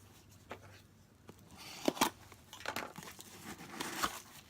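Fidget spinner packaging being handled and opened: rustling and crinkling with sharp clicks and taps, the loudest two close together about two seconds in.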